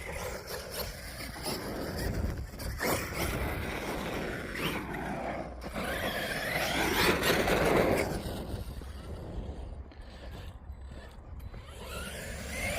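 Team Corally Kagama RC stunt truck's electric motor running, its whine rising and falling in pitch as it speeds up and slows down on the track, loudest about two-thirds of the way through.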